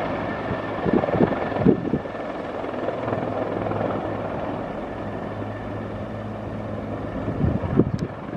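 Helicopter running with a steady rotor and engine hum that grows slightly fainter. Wind gusts buffet the microphone about a second in, again near two seconds, and near the end.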